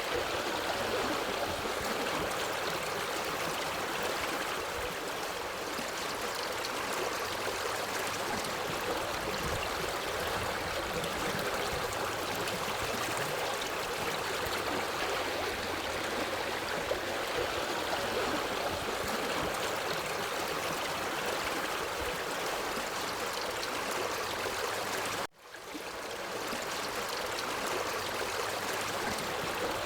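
Forest stream flowing steadily over rocks. It cuts out briefly about 25 seconds in and fades back up within a second.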